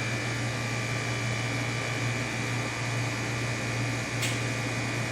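Steady hum of running fans or motors, with a faint high steady whine and a small click about four seconds in.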